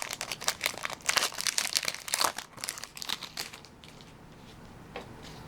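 Foil wrapper of a Pokémon booster pack crinkling as it is handled and pulled open, dense crackling for about three and a half seconds, then dying away to quiet with one light tap near the end.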